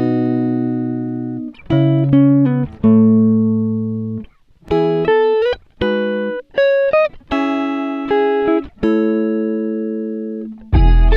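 Background music: a plucked-string melody, short phrases of sharply struck notes that ring and fade away.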